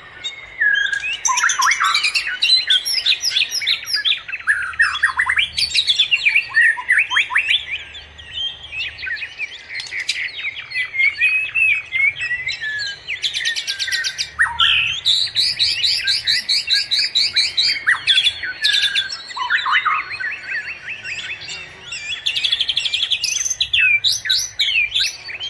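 Small birds chirping and twittering without pause: quick repeated notes, short rapid trills and sweeping calls overlapping one another.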